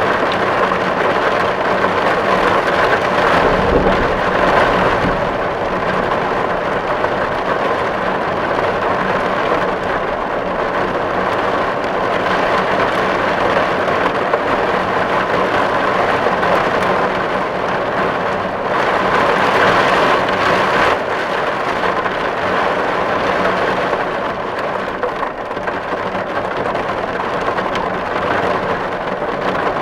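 Steady, heavy rain drumming on a tin roof, with a brief low rumble about four seconds in.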